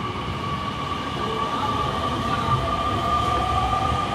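Electric commuter train running, with a steady rumble under a high, steady whine, and a second tone rising slightly near the end.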